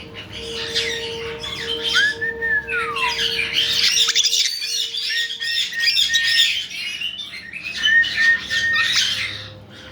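Caique parrots chattering in many quick high chirps and squawks. A clear whistle rises and then slides down about two seconds in, and short level whistled notes come later.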